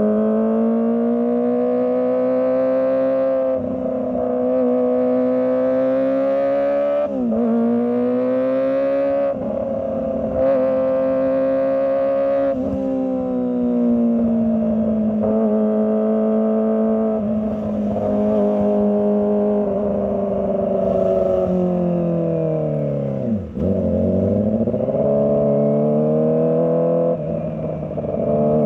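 Kawasaki ZX-25R's 250 cc inline-four engine under varying throttle, its pitch rising and falling with several short breaks where gears are changed. About 23 seconds in the revs drop sharply and climb straight back.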